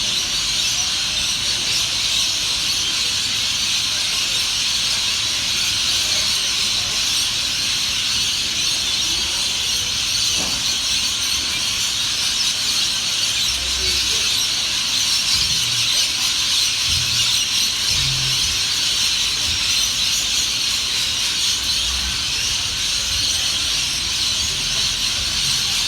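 A dense, steady chorus of many birds chirping at once, a continuous high-pitched chatter with no break or change throughout.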